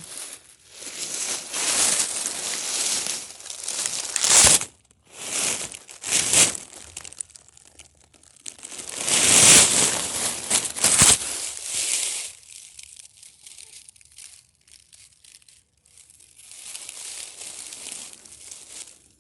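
Several long bursts of rustling, crinkling noise with a few sharp crackles, loudest in the first two-thirds, then a lull and a fainter stretch near the end.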